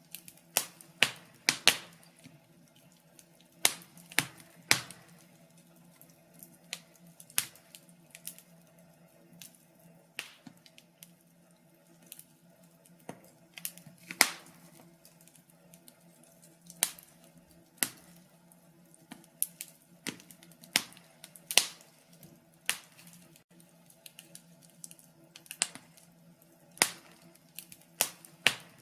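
Wood fire crackling in a fireplace: sharp, irregular pops and snaps, one or two a second and uneven in loudness, over a faint steady low hum.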